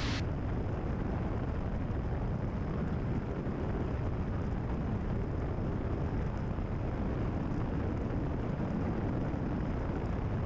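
Cessna 172RG's engine and propeller running steadily in cruise, a constant low drone heard inside the cabin.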